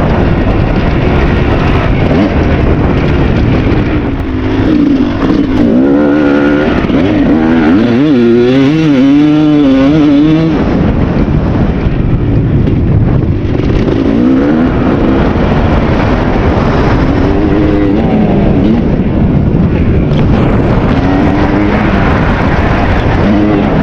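A 2001 Kawasaki KX250's single-cylinder two-stroke engine being ridden hard, its pitch climbing and dropping again and again as the throttle is worked.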